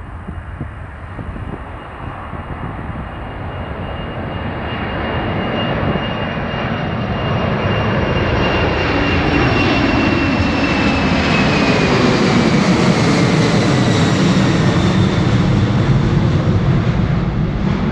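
Jet airliner passing close by: engine noise that builds steadily over about ten seconds and then stays loud, with a high whine that drops in pitch as the aircraft goes past.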